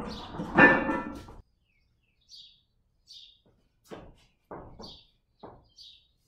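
A loud burst of noise with a ringing tone that cuts off abruptly about a second and a half in. After it, small birds chirp briefly several times in high, short notes, and there are a few short low knocks.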